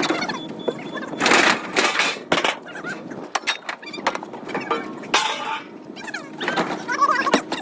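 Scrap metal crashing and clattering in several irregular bursts as it is dropped, the loudest about a second in and again about five seconds in, with voices talking in the background.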